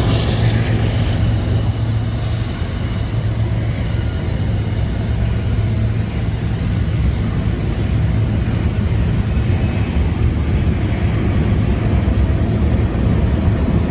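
CSX freight train cars rolling past, a steady, loud noise of wheels on the rails.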